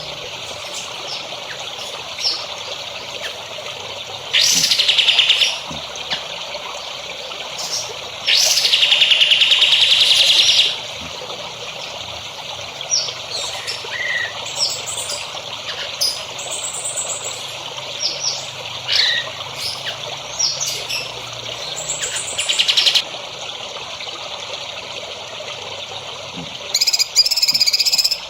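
Several songbirds chirping and calling, with four loud buzzing trills of one to two and a half seconds, over a steady hiss of trickling water.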